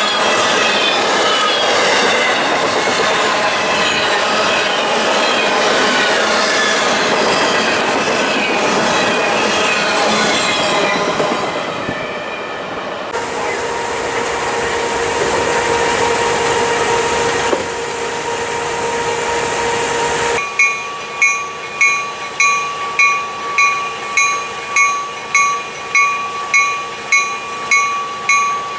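Freight train rolling past, its wheels squealing in several wavering pitches. After a cut there is a steady hum with a high whine, then a bell rings steadily at a little under two strikes a second.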